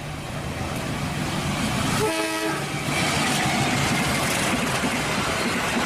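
KAI diesel locomotive hauling a passenger train past, its engine and wheels on the rails building to a steady rumble, with a short horn blast about two seconds in.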